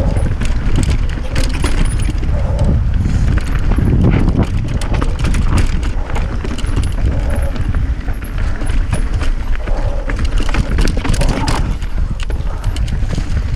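Steady low rumble with a constant rattle of clicks and knocks.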